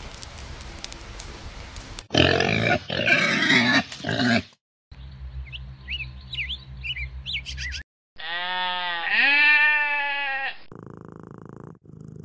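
Several short animal recordings one after another. First a loud, noisy stretch, then short high chirps. Next comes a long, drawn-out animal call that dips and then rises in pitch, and near the end a cat purring.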